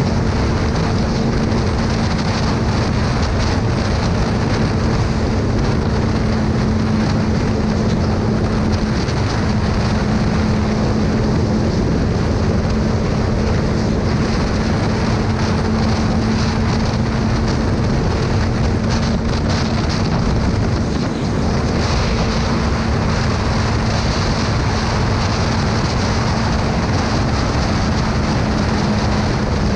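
Motorcycle riding at a steady speed: loud wind rushing over the microphone, with the engine's steady, even-pitched drone underneath.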